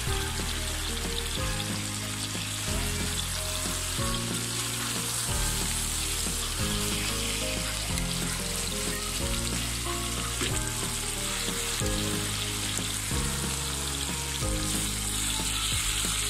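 Fish belly pieces, roe and liver sizzling steadily as they fry in oil in a wok, stirred now and then with a wooden spatula. Soft background music with low held notes plays underneath.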